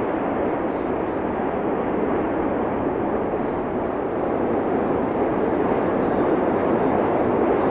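Cumbre Vieja fissure eruption: a continuous, even rushing noise with no separate blasts, growing slightly louder near the end.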